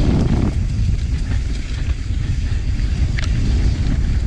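Mountain bike clattering over a rocky trail at speed, with a steady low rumble and a few sharp knocks, one about three seconds in.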